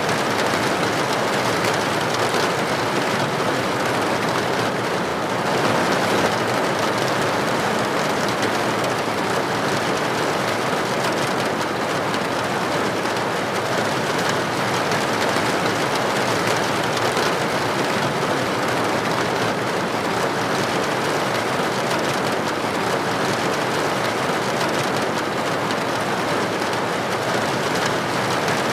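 Steady rain falling, a dense even hiss of drops on a surface, with no distinct individual drips.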